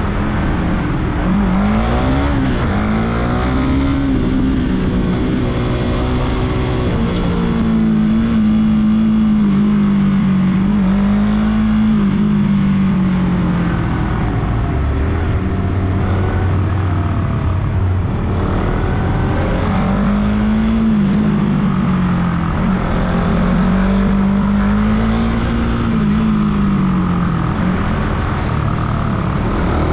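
Suzuki Raider 150 Fi's single-cylinder four-stroke engine running under way, its pitch rising and falling repeatedly as the rider accelerates and eases off.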